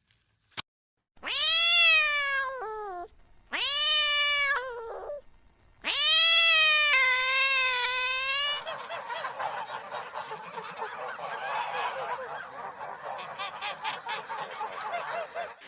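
An animal crying out three times in long, high, drawn-out calls, each rising and then falling, the third wavering. The calls are followed by a dense, jumbled clamour of overlapping sound.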